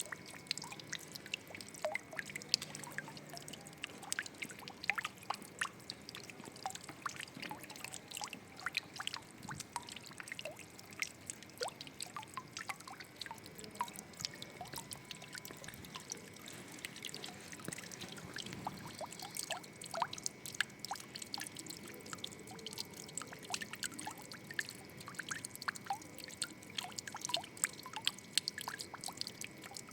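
Water trickling and splashing with many small irregular drips and plinks, a continuous flow with no pauses.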